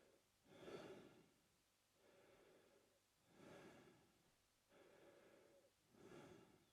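A man breathing steadily through his mouth, about five breath sounds in a slow regular rhythm, stronger and weaker breaths alternating.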